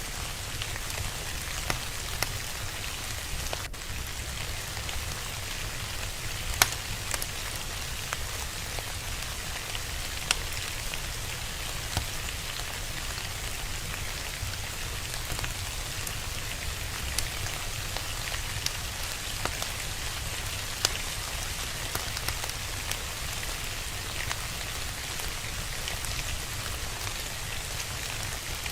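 Steady rain with a wood fire crackling, giving scattered sharp pops over the even hiss of the rain; the loudest pop comes about six and a half seconds in.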